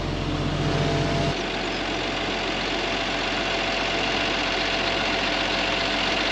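Crop sprayer engine running steadily with a broad mechanical hum. The low part of the hum drops away abruptly about a second in, and the steady running noise carries on.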